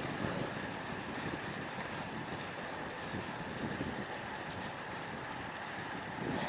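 Wind buffeting an action camera's microphone while riding a road bike into a strong wind: a steady rumbling hiss, with a faint steady high tone underneath.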